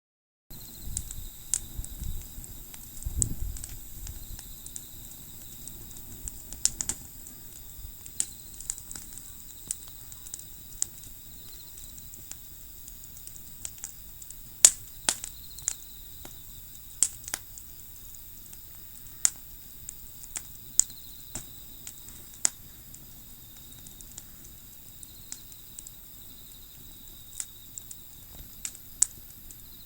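Wood campfire crackling, with sharp, irregular pops every second or so. A few low knocks in the first four seconds.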